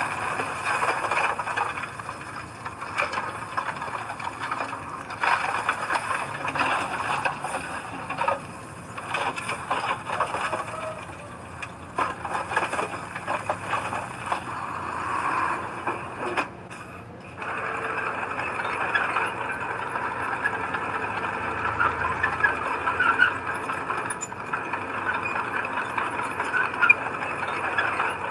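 Heavy earthmoving machinery working: an engine running under a steady clatter of metal rattles and squeals, with a short break in the noise about two-thirds of the way through.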